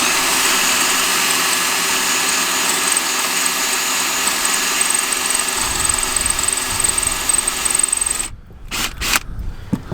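Power drill running steadily under load with a high whine, drilling into a car differential part that snapped. It stops suddenly about eight seconds in, followed by a few light knocks.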